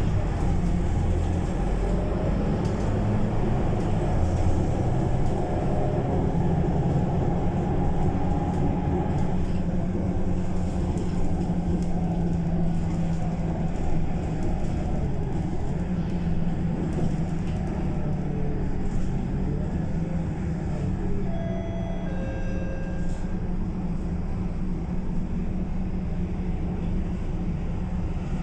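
Scania K230UB Euro V bus running under way: a steady engine and drivetrain drone whose note rises and falls as it drives. A few short electronic tones sound about two-thirds of the way through.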